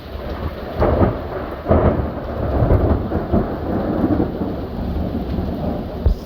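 Thunder close by: two sharp cracks about a second in and just under two seconds in, rolling into a long low rumble, with another sharp crack near the end, over steady rain.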